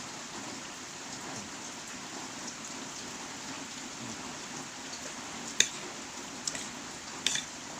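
Steady heavy rain falling in an even hiss. A few sharp clicks stand out in the second half, the loudest about five and a half seconds in.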